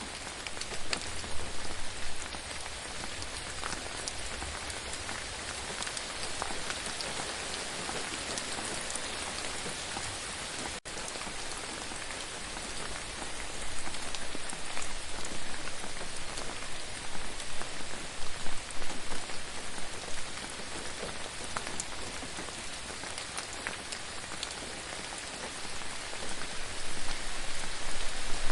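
Steady rain falling, with separate drops ticking on a surface. It grows louder for a spell in the middle and again near the end, with a momentary break in the sound about a third of the way in.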